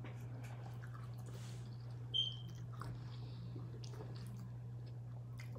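Close-up chewing and mouth sounds of people eating pizza and chicken wings, with small clicks, over a steady low hum. A short, high squeak about two seconds in.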